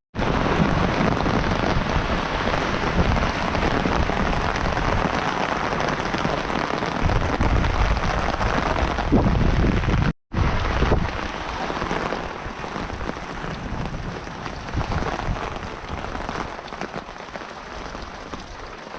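Steady rain falling with an even hiss, with stretches of heavier low rumble around the middle. The sound cuts out for a moment about halfway through, then the rain carries on, easing slightly toward the end.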